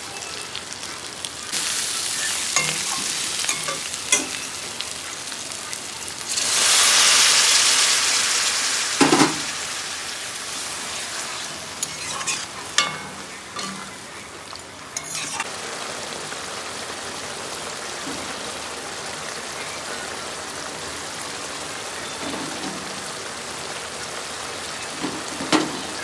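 Food frying in hot oil in a pan, a steady sizzle that swells much louder for about three seconds some six seconds in. Now and then a utensil knocks sharply against the pan as the food is stirred.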